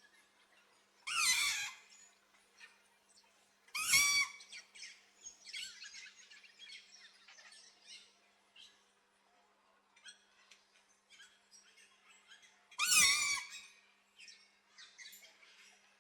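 Green-winged macaw giving three loud, harsh squawks: about a second in, about four seconds in, and about thirteen seconds in. Fainter short chirps and chatter come in between.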